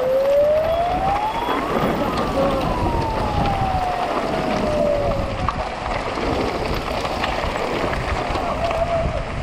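A siren wails once, rising in pitch for about two seconds and then falling slowly until it fades about five and a half seconds in, over a steady rushing noise.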